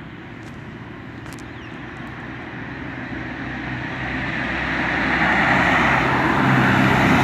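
A motor vehicle approaching, its engine and road noise growing steadily louder over several seconds, with a low engine hum coming up near the end.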